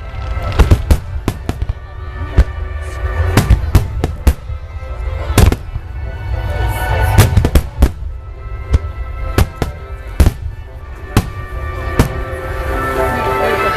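Fireworks bursting in a rapid series of bangs, about two a second, over music with held notes.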